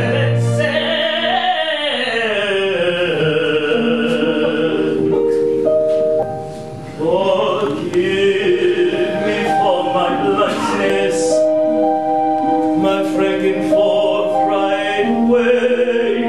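Musical-theatre song: a singer vocalizes wordlessly in an operatic style, holding long notes with vibrato and swooping up and down in pitch over sustained instrumental accompaniment. The music drops briefly about six and a half seconds in, then resumes.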